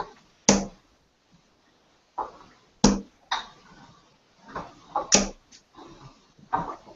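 Three darts striking a dartboard, a sharp thud every two seconds or so, with fainter knocks between them.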